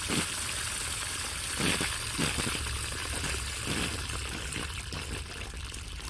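Water trickling and running out of the well system's plumbing as the pressure is bled off with the pump powered down, with a few faint knocks.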